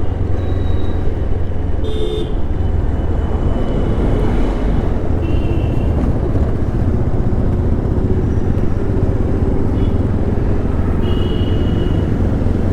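Riding noise from a moving motorcycle: a steady low rumble of wind buffeting on the microphone and the engine, with traffic around. A few short horn toots sound at about two, five and eleven seconds in.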